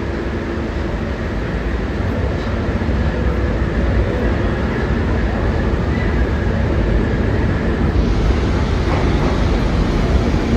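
New York City subway train running through the station, its noise growing steadily louder as it comes in.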